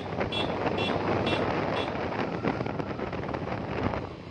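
Wind rushing over the microphone on a moving motorcycle, with a short high beep repeating about twice a second in the first two seconds. Near the end the wind noise drops away as the bike slows.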